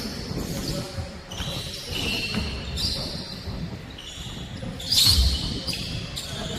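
Basketball game play in a gym: the ball bouncing on the court and shoes squeaking in short high squeals, with a heavier thud about five seconds in.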